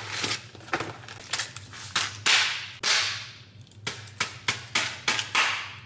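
Cardboard food box being handled and torn: a string of sharp cracks and rustles, several with a fading hiss after them, over a steady low hum.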